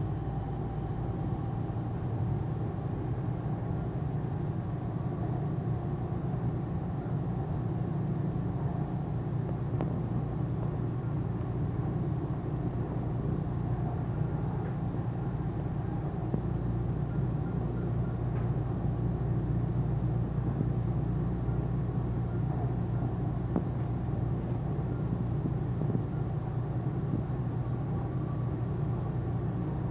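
Steady rumble of a Dubai Metro train running at speed between stations, heard from inside the carriage.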